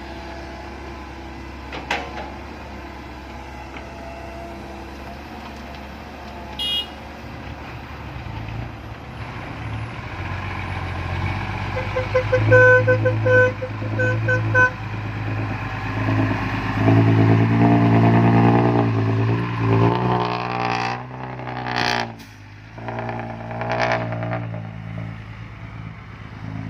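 Diesel dump truck engine running, then revving harder as the truck pulls away: its pitch climbs and drops back twice, as it does on gear changes. A short run of evenly spaced beeps sounds midway.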